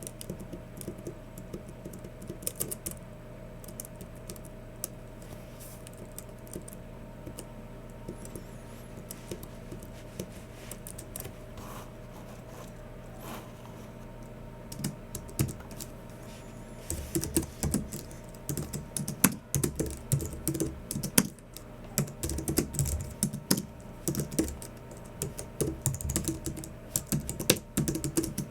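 Typing on a Logitech MX Keys Mini low-profile keyboard. Keystrokes are scattered for the first half, then turn to rapid, continuous typing about two-thirds of the way through. A faint steady hum runs underneath.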